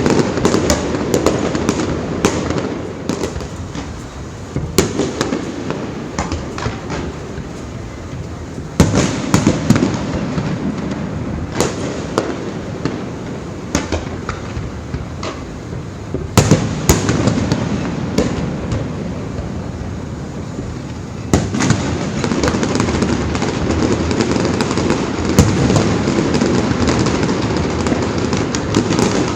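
Fireworks display: a continuous run of sharp bangs and crackling bursts, with a heavier volley of booms every few seconds.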